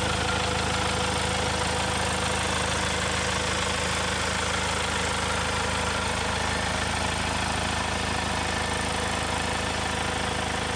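Kia Carnival engine idling steadily.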